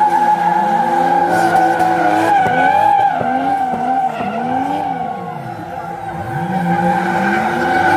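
Drift cars sliding with tyres squealing steadily while the engines rev up and down again and again; the engine note drops away about five seconds in, then climbs once more near the end.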